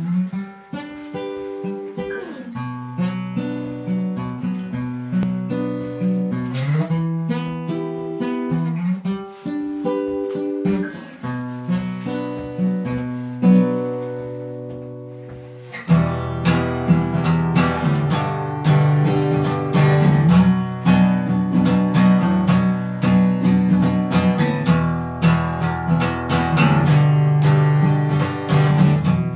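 Instrumental introduction of a song on acoustic guitar: picked notes at first, fading briefly, then fuller strummed chords with a bass line from about halfway through.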